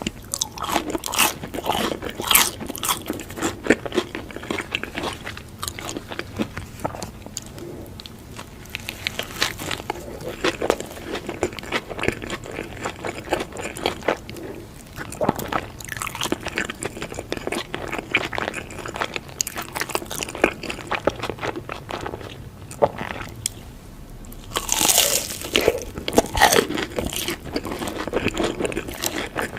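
Close-miked eating: crunchy bites and chewing, a steady run of crackly crunches, with a louder burst of crunching late on.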